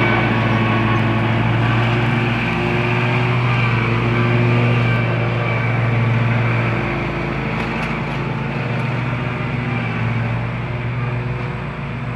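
Small gasoline engine of lawn mowing equipment running steadily at working speed.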